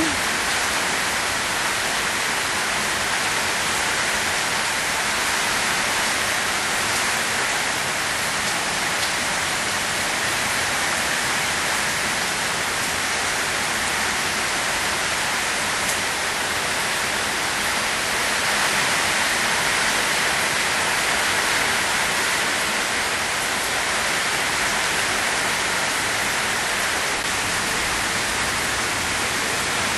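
Steady, even hiss of rain falling and floodwater running in a flooded backyard.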